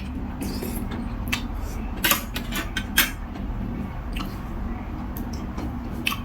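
Spoon and chopsticks clicking against a noodle bowl while eating, a few sharp clinks with the clearest about two and three seconds in, over a steady low hum.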